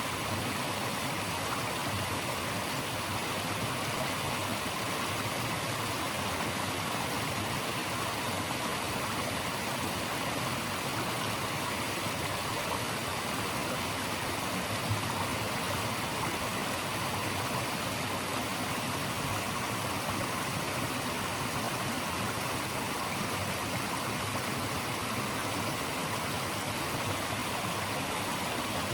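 Running water of a stream, rushing steadily and evenly.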